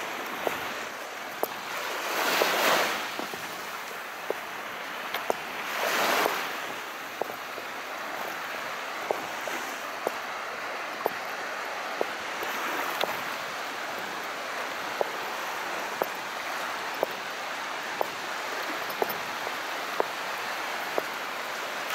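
Calm sea: a steady wash of water, with two small waves swelling and breaking about two and six seconds in. Short, sharp clicks come about once a second.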